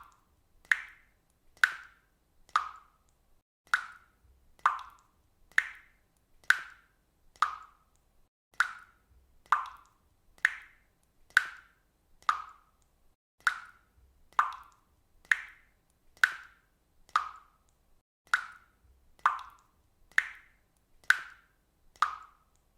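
Water dripping steadily into water, single drops landing about once a second, each a short plink that varies slightly in pitch from drop to drop.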